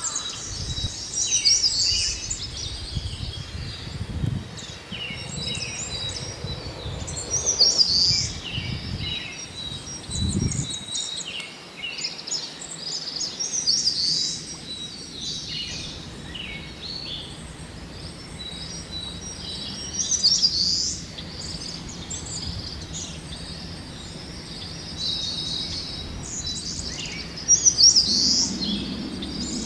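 Wild birds singing and calling, short high chirping phrases recurring every few seconds.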